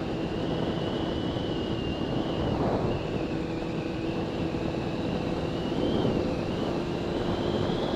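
Kawasaki Ninja ZZR600's inline-four engine running steadily while riding at a held-back, moderate speed, with a thin high whine that wavers slightly in pitch. Wind rushes over the microphone.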